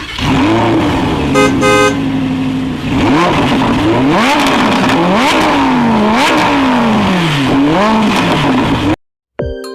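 An engine revving up and down over and over, with two short horn toots about a second and a half in. It cuts off suddenly near the end.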